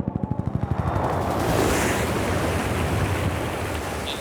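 A helicopter's rotor beats in fast, even pulses that are loudest in the first second, over a rush of wind and sea noise that swells about a second and a half in.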